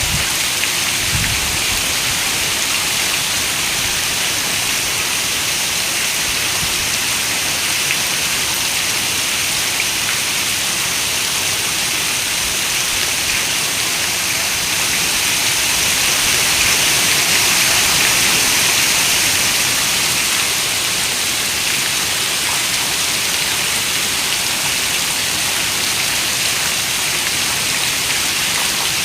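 Heavy rain falling on a window as a steady, dense hiss, which swells a little louder about halfway through.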